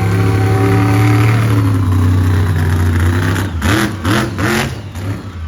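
Monster truck engine running steadily at high revs, then blipped three times in quick succession about three and a half seconds in, each rev rising and falling.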